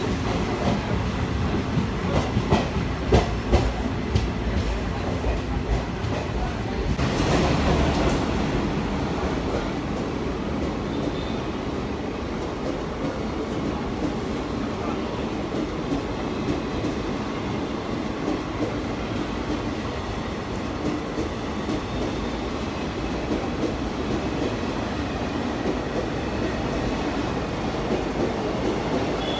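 ICF passenger coach running at speed, with a steady rumble and wheels clacking over rail joints in the first few seconds. A louder rush comes about seven seconds in and lasts about a second.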